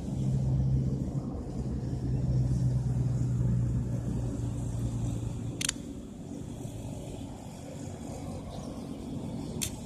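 A steady low hum like a motor running, which dies away about halfway through, with a sharp click just after it and another near the end.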